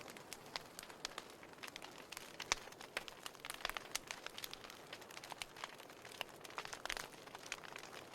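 Wood fire in a fireplace crackling, with irregular sharp pops over a faint hiss; one stronger pop about two and a half seconds in and a quick cluster of pops near the end.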